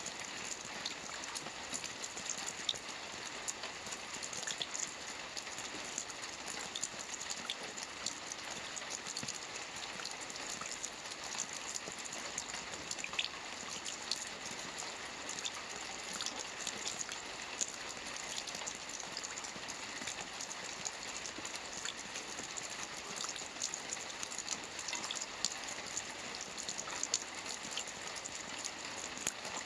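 Steady rain falling on a lake, a dense even hiss of drops with many small distinct drop ticks scattered through it.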